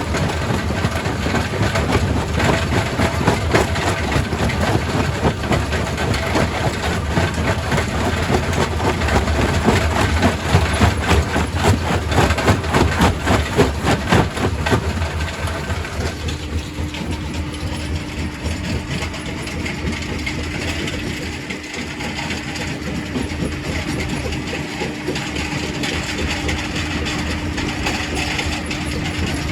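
Quarry primary rock crusher running, with rock clattering and cracking through it in a dense, irregular stream of knocks. About sixteen seconds in the clatter thins and a steady machine hum with a held tone comes to the fore.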